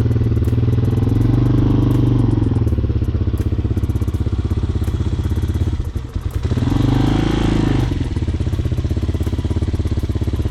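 Hawk 250 dirt bike's single-cylinder four-stroke engine running, revved up twice as the bike pulls away: once about a second in and again about seven seconds in, with a brief drop in between.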